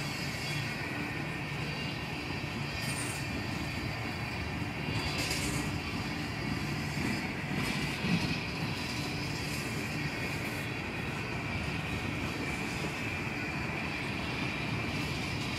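CSX freight train's tank cars rolling slowly past, crawling upgrade: a steady noise of steel wheels on rail with a thin high ring over it. A few brief knocks come through, the loudest about eight seconds in.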